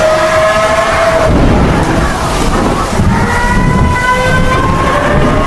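Vehicle horns held in long blasts at different pitches, a lower one in the first second and higher ones from about three seconds in, over a loud steady rushing noise of rain and traffic.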